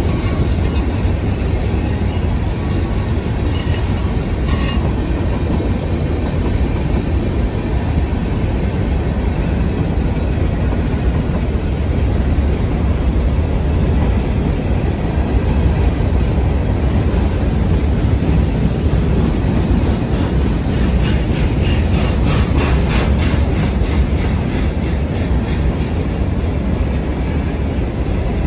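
Freight train hopper cars rolling past, their wheels rumbling steadily on the rails. A run of rapid clacking comes about twenty seconds in.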